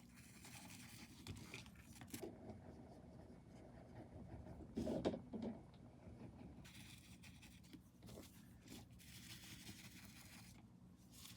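Faint, scratchy strokes of a paintbrush on paper over a steady low hum, with one brief louder sound about five seconds in.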